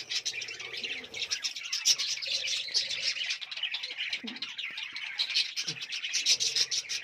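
A colony of budgerigars chattering and chirping all together in a dense, continuous warble.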